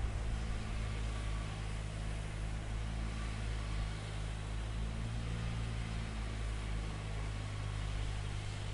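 Steady low engine hum with an even hiss, unchanging throughout.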